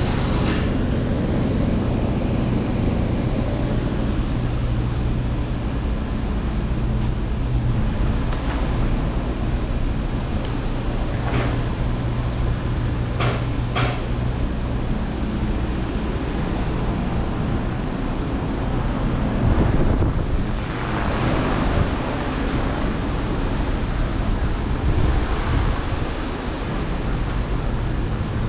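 GMC Yukon XL's 5.3 L V8 engine idling steadily, with a few light clicks about halfway through.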